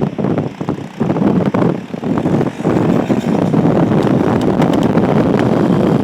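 Motorcycle engine revving hard under load during a burnout. The throttle is blipped with a few short dips over the first couple of seconds, then held open steadily.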